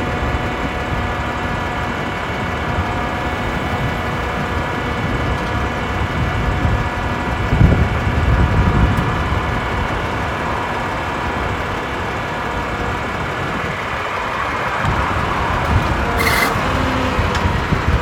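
International 4300 bucket truck's diesel engine running with the hydraulics working, a steady whine of several tones over a low rumble, as the chipper dump bed is lowered. A short hiss about sixteen seconds in.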